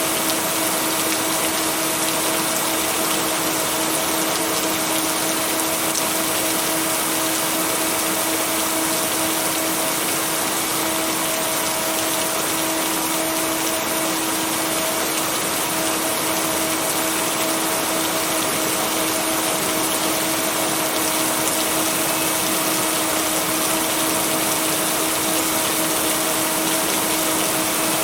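Steady rain, an even hiss with no thunder, blended with a constant low humming tone from added binaural beats.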